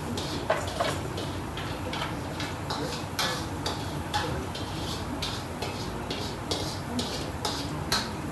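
Restaurant ambience: a steady background noise with irregular light clicks and knocks, about one or two a second.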